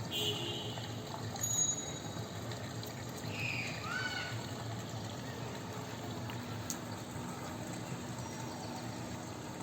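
Rainwater pouring and trickling steadily.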